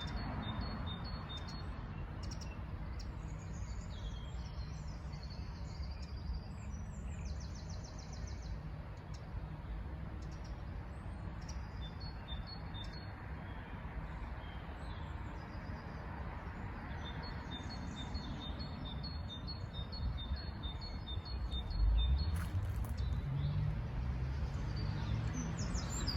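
Wren singing in short, rapid, high trills, with other small birds' chirps, over a steady low rumble. A brief thump about 22 seconds in.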